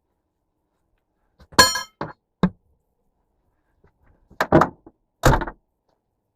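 Metal objects being handled: one sharp metallic clang that rings briefly, followed by several knocks and heavier thuds over the next few seconds.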